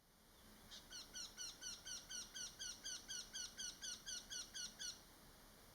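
A bird singing a fast, even series of about seventeen identical repeated notes, about four a second, lasting about four seconds before it stops.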